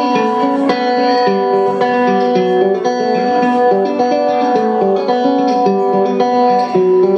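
Guitar playing the opening of a song live, a run of picked single notes and chords with no singing.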